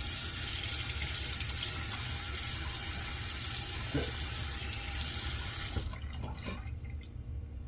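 Faucet running steadily into a sink, shut off about six seconds in, followed by a few faint small knocks and splashes.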